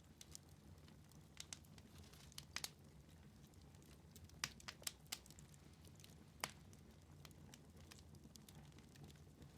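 Wood fire in a fireplace crackling quietly, with a dozen or so sharp pops and snaps over a low steady hum.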